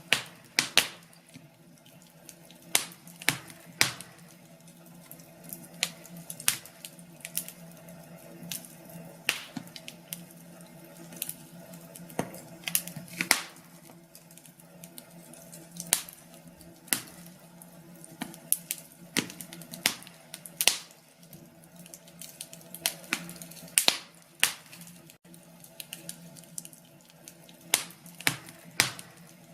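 Wood fire crackling in a fireplace: irregular sharp pops and snaps, sometimes several a second, over a faint steady low hum.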